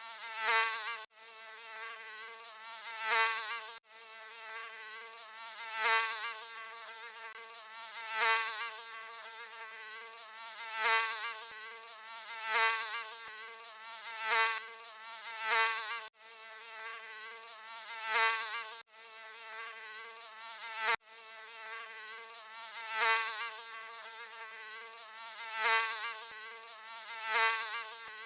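Mosquito wingbeat buzz, a thin high whine with many overtones, swelling louder and fading about every two seconds as if flying close past the ear. The buzz cuts out for an instant a few times.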